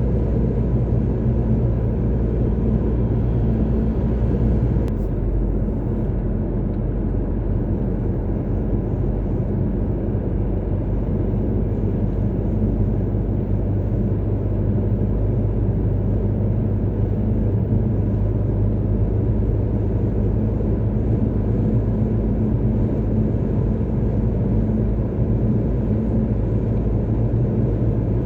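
Car driving at a steady speed on a motorway: steady low engine hum with tyre and road noise. The hiss dips slightly about five seconds in.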